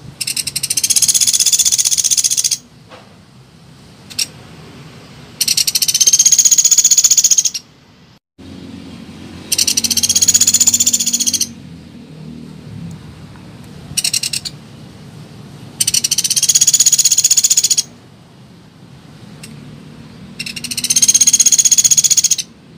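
Woodpecker (pelatuk beras) rattling call: fast trills of rapid, high repeated notes, each lasting about two seconds, five long trills and one brief one, a few seconds apart.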